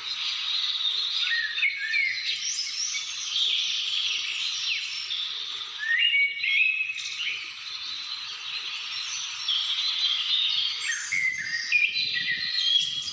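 Several wild birds chirping and calling over one another in a continuous chorus of short, high chirps and quick rising and falling notes, over a steady high hiss.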